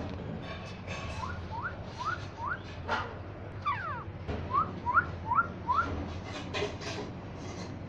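A parrot whistling: a run of short rising whistles, a single longer falling whistle about four seconds in, then another run of short rising whistles.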